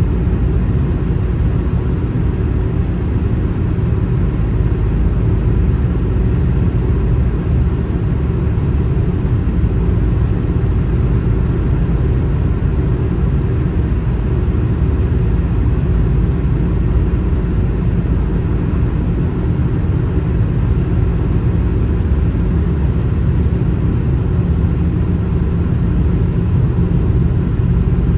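A car driving on a highway: a steady, unbroken low rumble of road and engine noise.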